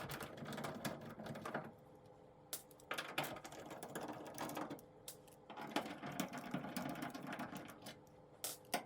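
Power screwdriver running in several short runs as it backs out the screws that hold a dryer's door on, with brief pauses between screws.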